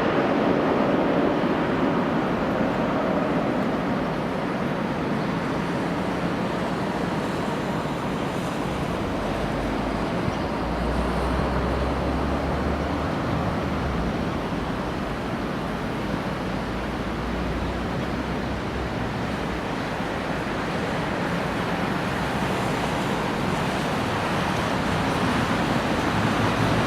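Steady rushing roar of an Airbus A320's jet engines after landing, blended with wind noise on the microphone. A deeper rumble swells for a few seconds about ten seconds in.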